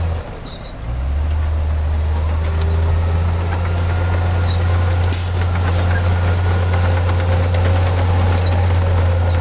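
Heavy diesel engine of earthmoving machinery running steadily, a deep low drone that dips briefly near the start and then holds.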